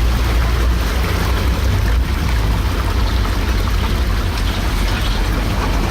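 Humvee diesel engine running steadily with a deep rumble while the truck sits stuck and flooded in a mud hole, with a noisy wash over it.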